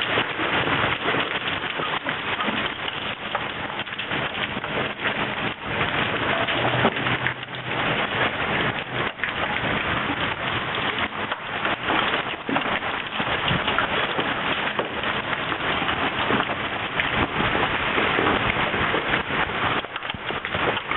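Heavy hail pelting down, large hailstones striking a swimming pool and its surroundings in a dense, unbroken patter of impacts.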